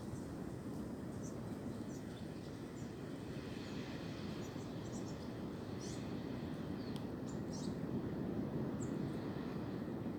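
Steady wind blowing through tree branches, with a few short bird chirps.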